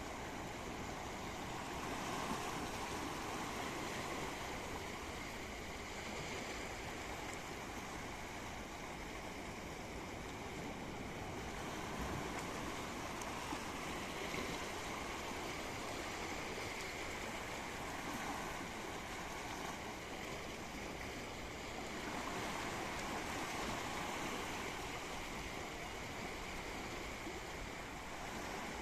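Sea waves washing in, a steady rushing that swells and eases every few seconds.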